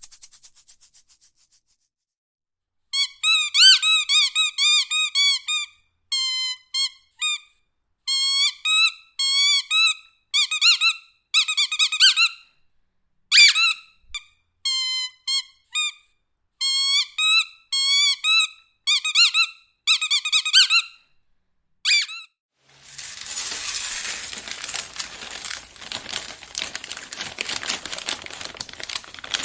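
A rubber squeaky dog toy squeezed over and over in short bursts of high, wavering squeaks, with brief gaps between them. A shaker rattle fades out at the start, and near the end a bag crinkles.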